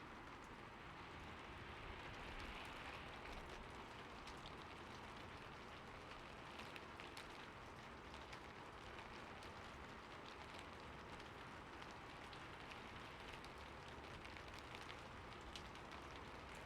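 Quiet, steady rain: an even hiss with many small, scattered drop ticks.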